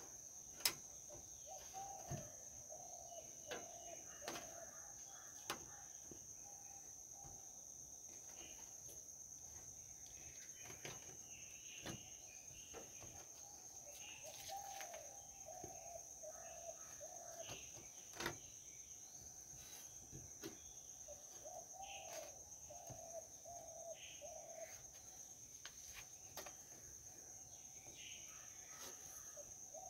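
Faint outdoor ambience: a bird calls in repeated phrases of several short low notes, over a steady high-pitched drone and scattered chirps. A few sharp knocks come from hands handling the three-wheeler's rear window glass and rubber seal, the loudest about a second in.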